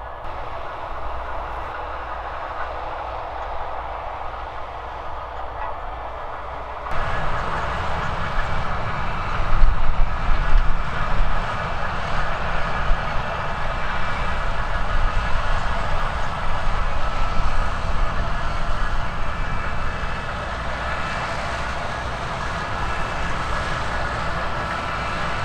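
Heavy farm machinery from a sugar beet harvest running steadily. The sound gets abruptly louder and deeper about seven seconds in.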